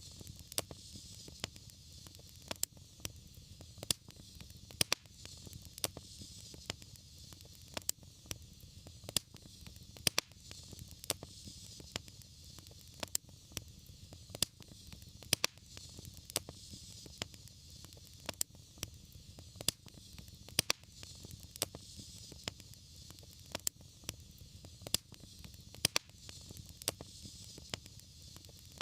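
Fire burning in a fireplace, crackling: sharp pops and snaps a couple of times a second over a low rumble and a soft hiss.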